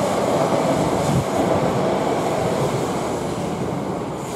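South Western Railway Class 458 electric multiple unit running past on the track. The steady wheel-and-rail noise slowly fades as the train draws away.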